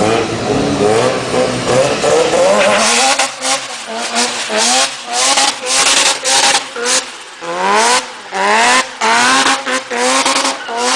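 Mazda RX-7 FD3S twin-turbo 13B rotary engine with the exhaust deleted. It runs unevenly at first, then from about three seconds in the revs climb in about a dozen quick rises, each cut off sharply with a short rushing noise between them.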